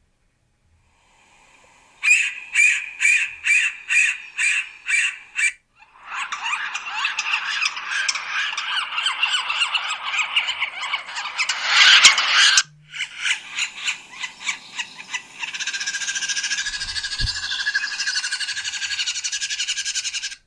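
Yellow-bellied sapsucker calling: a run of about eight evenly spaced calls, roughly two a second, then a long stretch of dense, busy calling that breaks off briefly past the middle and resumes.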